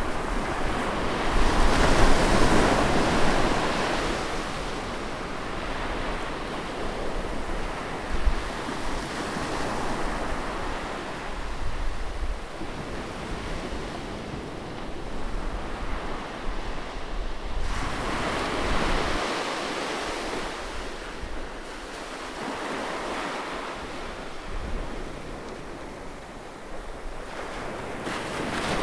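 Sea waves breaking on a beach, a continuous wash of surf that swells as a wave crashes about two seconds in and again about two-thirds of the way through, then draws back quieter.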